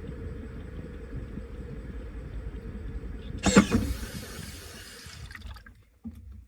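Washing machine running with a steady low hum, then a sudden loud rush of water about three and a half seconds in that fades over about two seconds; the machine stops near the end.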